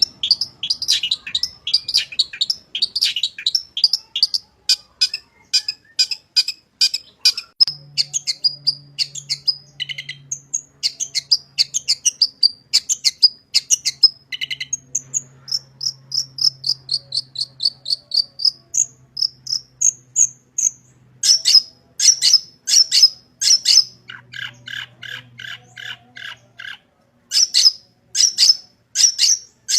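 Long-tailed shrike (cendet) singing a fast, varied song. It gives rapid runs of high chirps, then a stretch of whistled notes gliding up and down. In the last third come groups of louder, harsher notes with short gaps between them.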